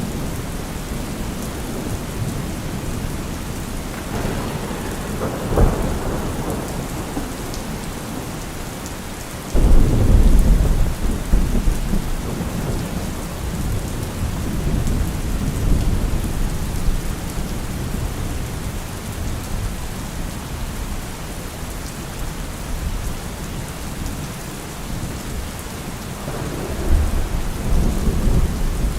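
Steady rain with thunder. A rumble about four seconds in ends in a sharp crack. A sudden loud clap near ten seconds rolls on for several seconds, and another rumble comes near the end.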